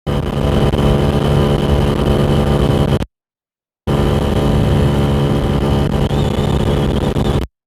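GY6 scooter engine, bored out to 88cc, running flat out at a steady high pitch at about 45 mph, with wind noise on the microphone. The sound cuts out to silence for under a second about three seconds in, and again just before the end.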